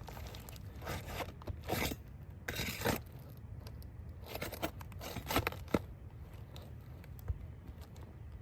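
A roof shingle being pried and peeled up where it is stuck to what lies beneath: bursts of scraping and tearing in the first three seconds, then lighter scattered scrapes and a few sharp clicks.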